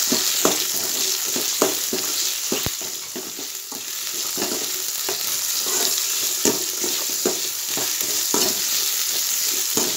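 Sliced shallots, garlic, green chillies and curry leaves sizzling in hot oil in a metal pan, with a ladle scraping and tossing them in repeated strokes, about one or two a second, as they are sautéed.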